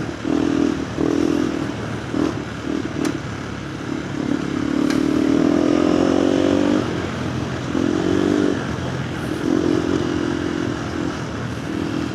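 KTM 390 Adventure R's single-cylinder engine through a Norifumi Whoops stainless slip-on exhaust, ridden on and off the throttle. The revs come up in short pulls with gaps between them, and one longer pull about halfway has the pitch climbing for a couple of seconds.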